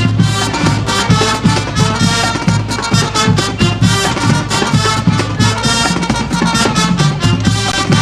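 High school marching band playing an up-tempo number: brass over a steady drumline beat.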